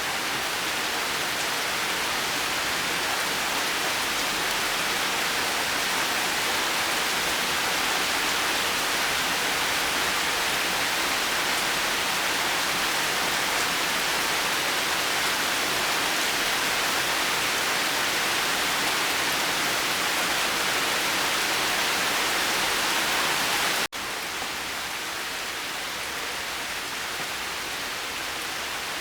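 Steady heavy rain, an even hiss with no thunder. It cuts out for an instant about 24 seconds in and carries on slightly quieter.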